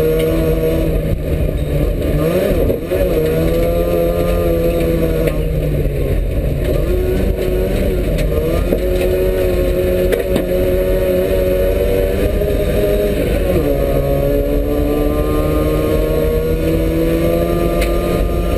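Trabant 601 rally car's two-stroke engine running hard under load on a dirt track. Its pitch dips and climbs again twice, about two and a half seconds in and about three quarters of the way through.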